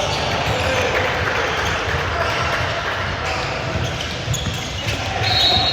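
Basketball game in a gym: a ball bouncing on the hardwood floor amid the voices of players and spectators, with brief high-pitched squeaks near the end.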